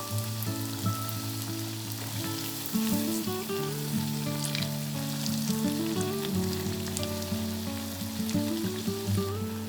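Food frying in hot oil, sizzling steadily with scattered small crackles and pops, over a soft background melody of slowly changing notes.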